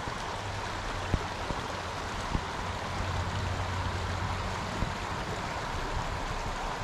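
Steady rush of a small stream running over shallow riffles, with a few faint clicks.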